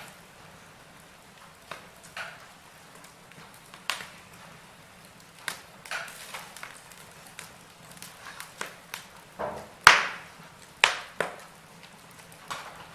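Logs burning in a fireplace: irregular sharp pops and crackles over a faint steady hiss, the loudest snap about ten seconds in.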